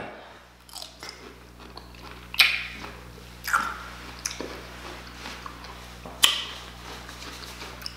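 A person biting into and chewing a pickle close to the microphone. Three crisp crunches come about two and a half, three and a half and six seconds in, with softer wet chewing between them.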